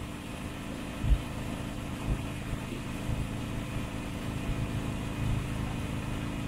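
Harley-Davidson motorcycle's V-twin engine running steadily, with a brief low thump about a second in.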